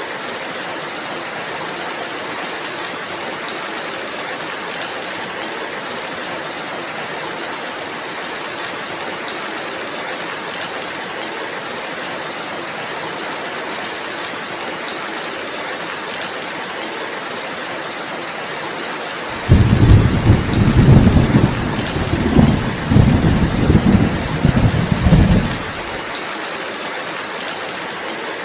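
Steady rain falling. About two-thirds of the way through, a loud roll of thunder starts suddenly. It rumbles low in several swells for about six seconds, then stops.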